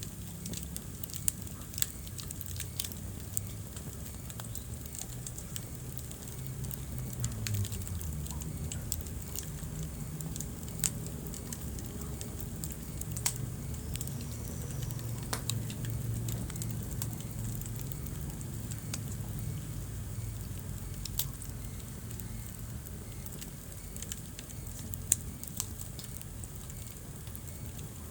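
Wood fire crackling in a fireplace: irregular sharp pops and snaps over a low, steady rumble of burning, with one louder pop near the end.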